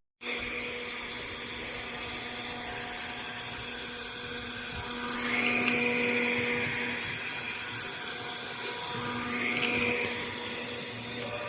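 Cordless handheld dust-mite vacuum cleaner's motor running with a steady high-pitched whir. It swells louder twice, about halfway through and again near the end.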